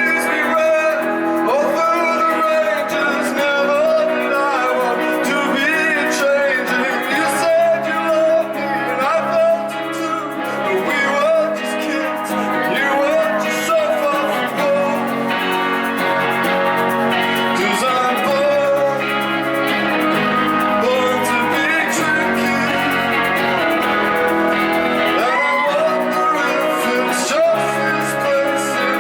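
A live rock band performing a song: guitars carry sustained chords under a wavering sung lead vocal.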